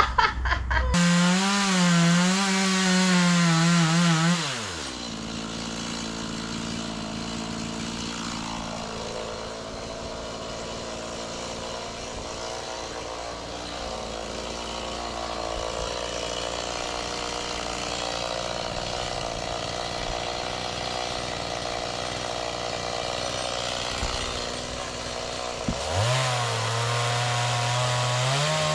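Stihl chainsaw running at high revs for a few seconds, then dropping back to a quieter, lower running for most of the time. Near the end it revs up again, its pitch rising.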